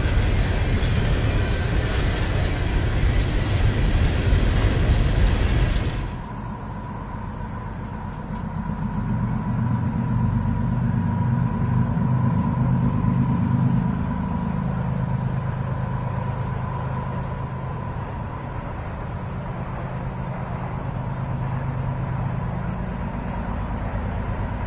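Open-top Norfolk Southern hopper cars rolling past, with wheels clicking over the rails, until a sudden cut about six seconds in. After that, a quieter steady low rumble with a faint steady high tone.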